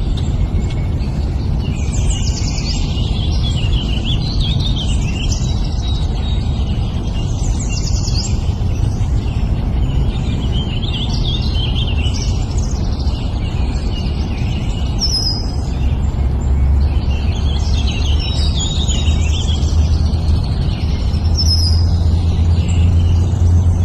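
Many small birds chirping and twittering in quick, overlapping calls over a steady low rumble. The rumble grows louder, with a low hum, from about two-thirds of the way through.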